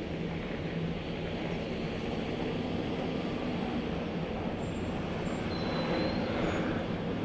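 Steady mechanical rumble with a low hum.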